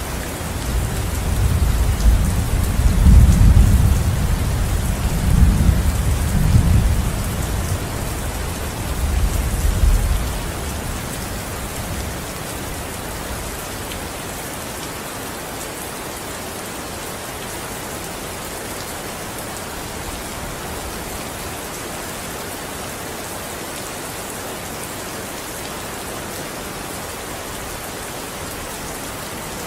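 Steady rain hissing, with a long roll of thunder in the first ten seconds that swells several times before fading away, leaving only the rain.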